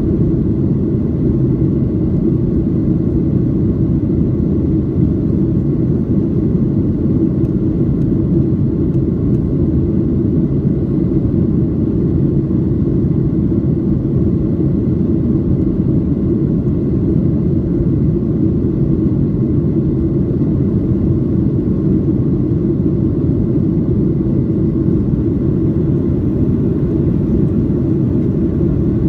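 Steady cabin noise inside a Boeing 737-800 in flight: a constant low rumble from its CFM56 engines and the airflow, with a faint steady high tone above it.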